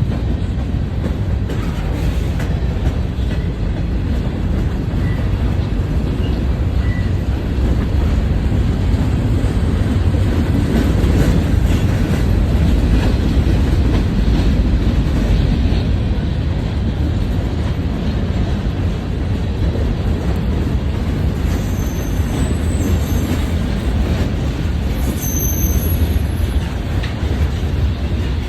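Norfolk Southern freight train rolling past, its cars making a steady, continuous rumble with wheel-on-rail noise.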